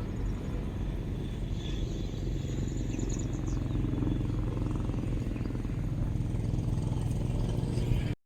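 A steady low engine drone, with faint high chirps about three seconds in; the sound cuts off abruptly near the end.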